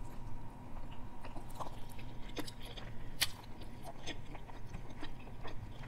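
A person biting and chewing teriyaki chicken, with scattered small clicks, the sharpest a little past the middle.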